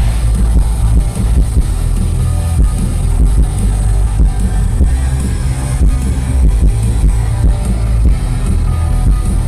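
Loud live rock music: a band playing guitars over a heavy drum beat and bass.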